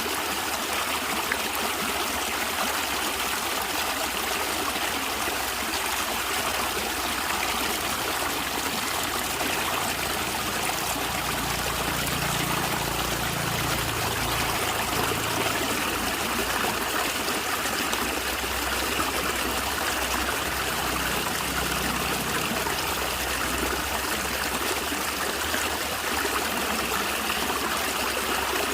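A small stream flowing and gurgling over stones, a steady babble of trickling water.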